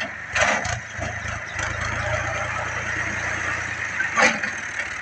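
Fiat 480 tractor engine running at a steady idle, with a few sharp clunks about half a second in and again about four seconds in.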